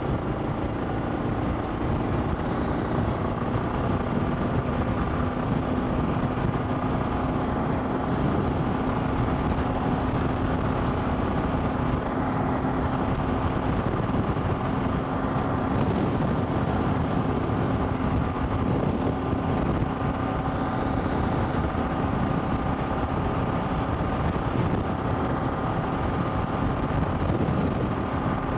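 Motorcycle engine running at a steady speed, its hum holding one pitch, over road and wind noise.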